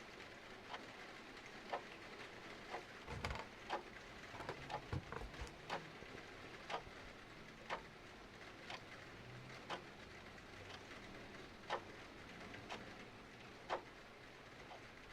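Clock ticking once a second over a steady hiss of rain, with a brief flurry of fireplace crackles and low pops from about three to six seconds in.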